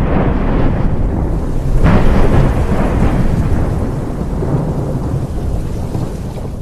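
Deep rolling rumble like thunder, with a hiss like rain over it. It swells about two seconds in, then slowly fades.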